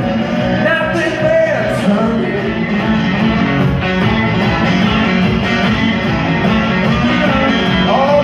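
Live blues-rock band playing, with electric guitar to the fore between sung lines.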